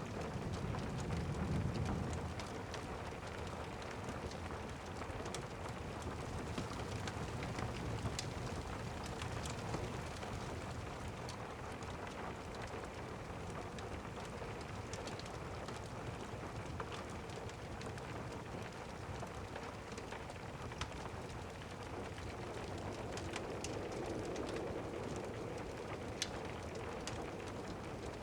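Steady rain pattering, with a low rumble of distant thunder in the first couple of seconds and scattered sharp crackles of a fireplace fire.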